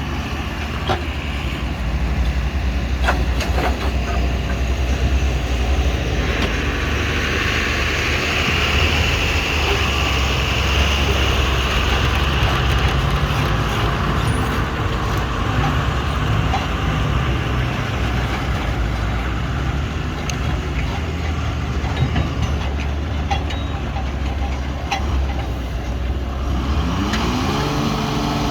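JCB backhoe loader's diesel engine running steadily under load while it digs and loads soil, with scattered short knocks. The engine pitch rises near the end as it revs up.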